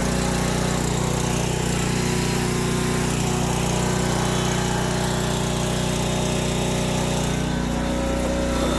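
Gas pressure washer running steadily at a constant speed, its small engine driving the pump, which has primed and is pushing water through.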